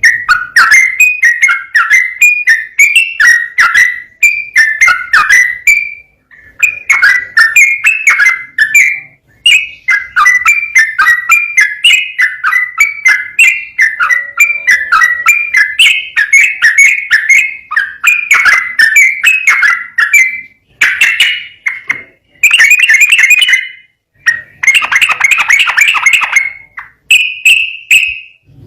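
Sooty-headed bulbul (trucukan) singing long, rapid runs of bright warbled notes, in phrases of several seconds broken by short pauses.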